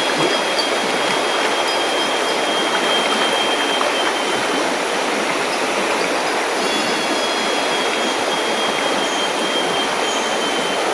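Mountain river water rushing over rocks, a loud, steady hiss. A thin, steady high tone sounds over it for the first four seconds or so, stops, and comes back for roughly the last four seconds.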